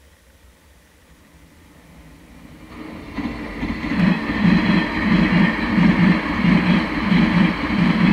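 A train approaching and passing close by, growing loud from about three seconds in. Its wheels knock over the rail joints in regular pairs, the clickety-clack of passing bogies.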